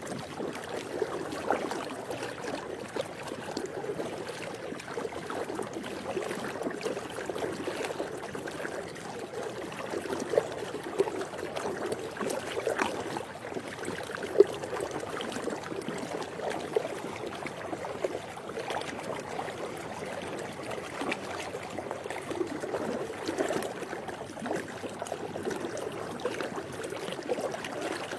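Swimming pool water lapping and sloshing steadily, a continuous wash of small irregular splashes, with a few brief louder splashes about halfway through.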